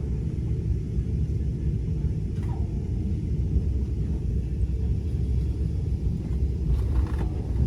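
Steady low rumble of a passenger train running along the track, heard from inside a Siemens Venture coach.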